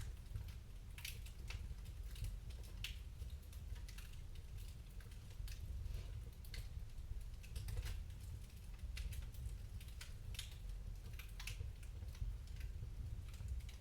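Wood fire in a fireplace crackling: irregular sharp pops and ticks, several a second, over a steady low rumble.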